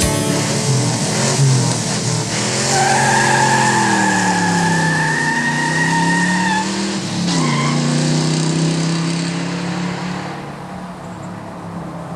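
A truck engine revving as it peels out, its pitch rising and falling. A long tire squeal starts about three seconds in and a short second squeal follows near seven seconds. The engine then fades away.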